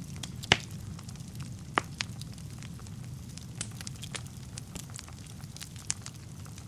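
Wood fire burning in a fireplace: a low steady rumble of flames with scattered sharp crackles and pops, the two loudest pops about half a second and two seconds in.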